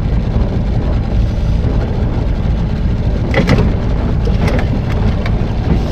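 Mercury 9.8 hp outboard motor on a mini boat running at a steady speed, a loud continuous low drone.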